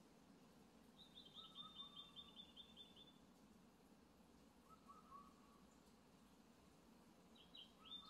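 Forest birds singing faintly. One gives a quick trill of high repeated notes for about two seconds, then a short burst near the end. Another repeats a lower short call every few seconds.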